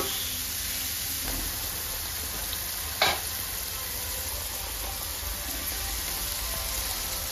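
Shredded cabbage and green peas sizzling in a nonstick pan as they are stirred and tossed with a spatula, with a sharp knock of the spatula against the pan about three seconds in.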